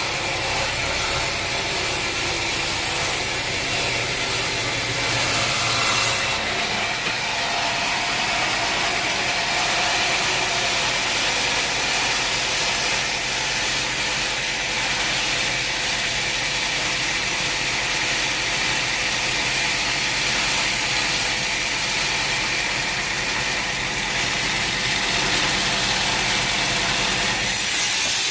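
Sawmill machinery running steadily. The sound changes about six seconds in, losing its hiss, and there is a brief louder burst near the end.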